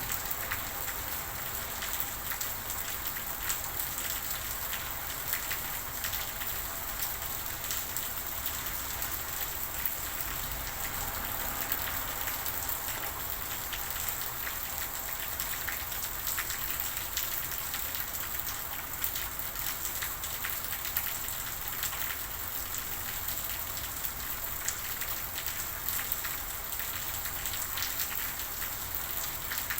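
Steady rain falling, an even hiss with many small droplet taps scattered throughout.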